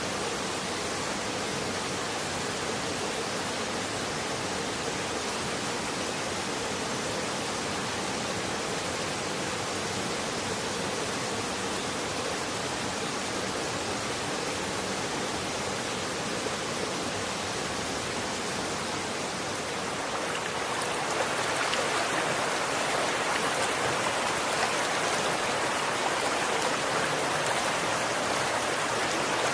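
Running water with a steady rushing sound. About two-thirds of the way through it turns louder and brighter.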